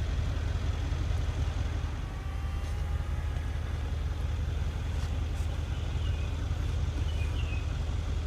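A car engine idling, a steady low rumble, with a few faint high chirps over it.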